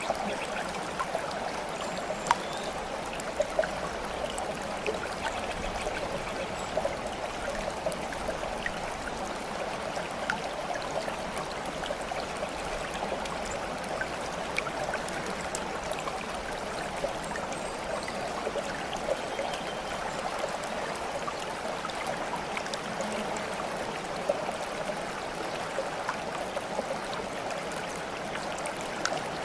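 Steady babbling water, like a small stream, running without a break and flecked with many tiny splashes and drips.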